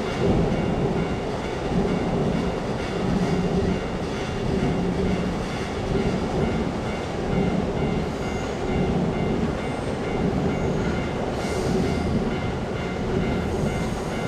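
JR East 185 series electric train running past a level crossing, its wheels clacking over the rail joints in regular swells. The crossing's warning bell rings throughout in a steady repeating pattern.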